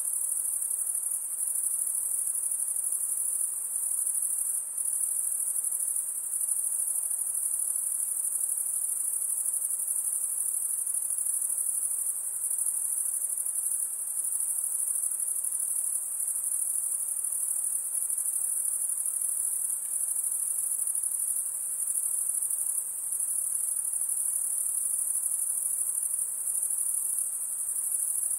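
Insects calling in a continuous, very high-pitched chorus that holds steady throughout.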